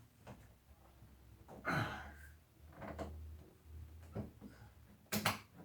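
Air conditioner's cover being tugged and handled, giving a few separate knocks and clatters: the loudest about two seconds in, and a sharp double knock near the end, over a faint low hum.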